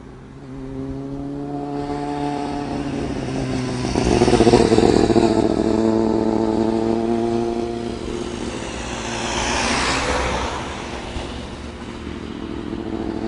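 1998 Kawasaki ZX-6R's inline-four engine with an Urban GP aftermarket exhaust, running at fairly steady revs. The pitch steps up a little about two seconds in and the engine is loudest from about four seconds in, with a rushing swell around ten seconds in.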